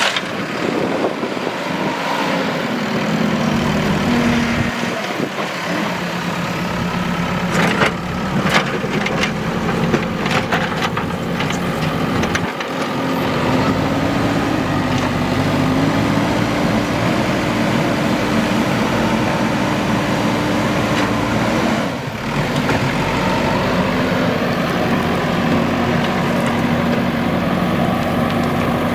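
Heavy construction-machine diesel engine running under working load, its revs shifting up partway through and briefly dropping before picking up again. Several sharp metallic knocks come in a cluster in the first half.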